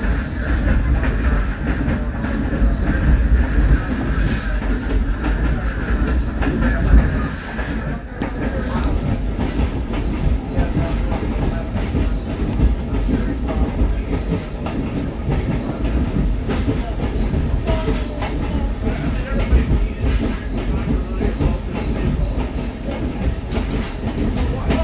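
Railroad caboose rolling along the track: a steady low rumble of wheels on rail, with irregular sharp clicks and knocks as the wheels cross rail joints.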